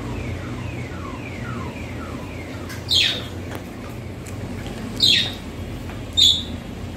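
Birds chirping: a quick run of short, falling chirps, then three louder, shriller calls that sweep down in pitch, about a second or two apart. A steady low hum lies underneath.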